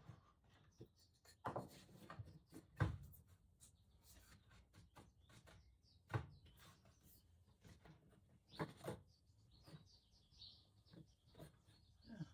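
Quiet, scattered clicks and knocks of parts being handled and fitted by hand, with a few louder knocks spread through.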